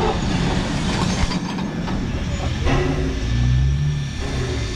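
Heritage train rumbling slowly close by, with a few metallic clanks, and a low steady hum from about three seconds in.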